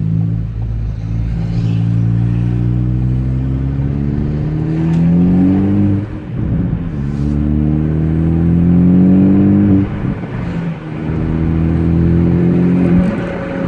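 Ford Focus ST's 2.0-litre turbocharged four-cylinder, straight-piped with the resonator and muffler removed, accelerating hard through the gears. The engine note rises three times, dropping at two upshifts about six and ten seconds in. Heard from inside the cabin with the windows down.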